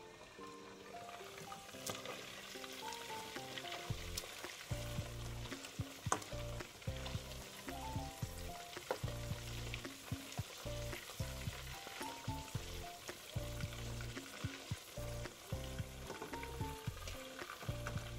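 Chicken liver and gizzard frying in oil in a wok, a steady sizzle with occasional spattering clicks.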